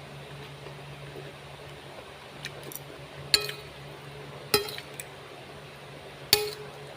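Tableware clinking three times, about a second or two apart, each a sharp hard knock that rings briefly like glass or ceramic being struck.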